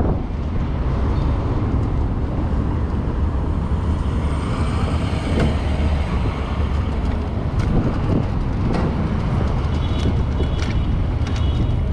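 Wind and traffic noise while riding an Onyx RCR electric bike through city traffic: a steady low rumble with a few faint clicks.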